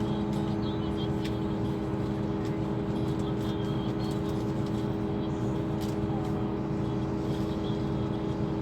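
Scania K340 coach's diesel engine running steadily, a constant drone that holds the same pitch throughout.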